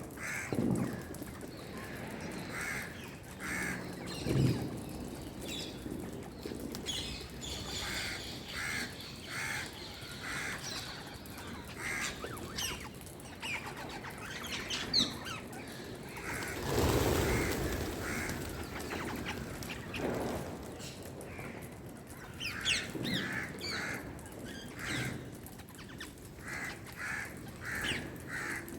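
Birds calling over and over in short, harsh calls. About halfway through comes a rushing noise lasting about two seconds.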